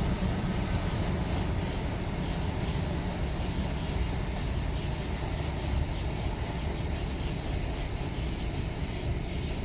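Empty coal train rolling by as a steady low rumble with no horn, slowly fading.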